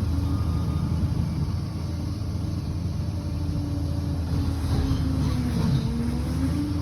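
Liebherr PR 746 crawler bulldozer's diesel engine running steadily under work, a deep rumble with a held tone that dips and rises a little in pitch near the end as the load changes.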